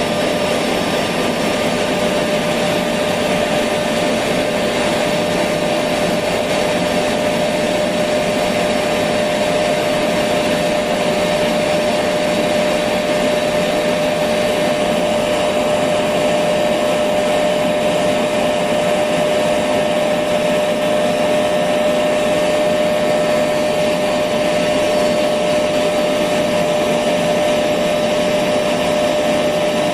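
Electric vacuum cleaner running steadily: an even rushing motor noise with a constant whine held at one pitch.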